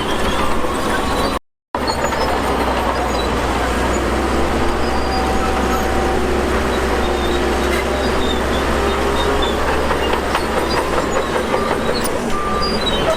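Bulldozer's diesel engine running under load while its steel crawler tracks clank and squeal. A brief dropout cuts the sound about a second and a half in.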